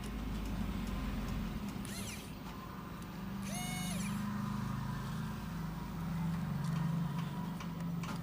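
Road traffic noise: vehicle engines running steadily, with one short horn toot about three and a half seconds in.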